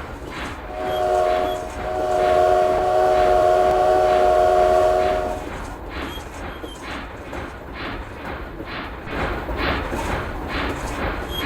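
A locomotive sounds a chord of several notes, first briefly and then held for about three and a half seconds. It then runs on with a regular beat of about two a second over a low rumble.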